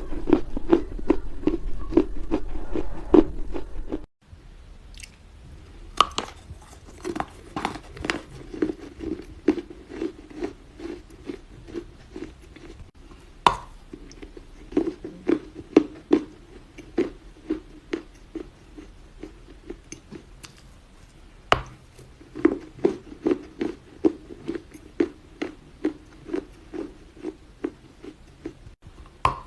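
A person chewing dry Chinese loess clay close to the microphone in a steady rhythm of about three chews a second, with a few sharp crunches as fresh pieces are bitten.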